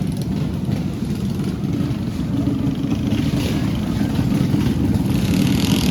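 Small mini bike engines running with a steady rumble that grows somewhat louder about halfway through.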